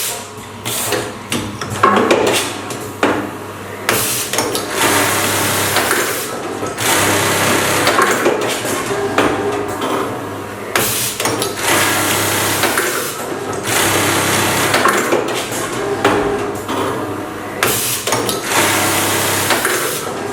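Automatic lockstitch collar cut-and-sew machine running its automatic cycle: the sewing head stitches in repeated stretches of about two seconds, with short pauses between them, over a steady low hum.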